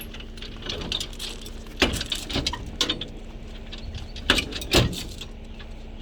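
Irregular knocks and clatter, loudest about two seconds in and twice more near the end, over a faint steady hum.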